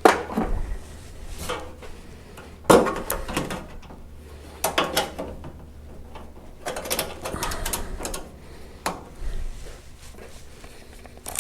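Workshop handling noise: a run of clicks, knocks and short rattles from tools and metal being adjusted. The loudest knocks come at the very start and about three seconds in, with clusters of clicks around the middle.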